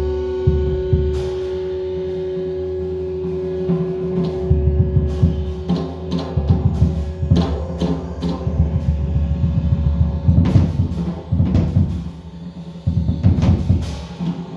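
Percussion: a long ringing tone with several pitches fades away over the first seven seconds, while irregular drum strikes build into a run of quick, loud hits.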